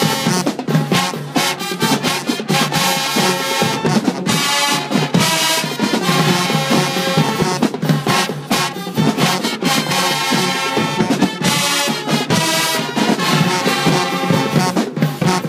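High school marching band playing, with brass (trumpets and trombones) over drums.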